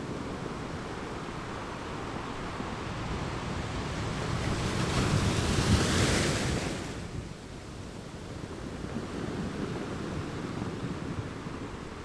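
Ocean waves washing onto a shore. One wave swells in, hisses loudest about halfway through, then falls away sharply, leaving a softer wash of surf.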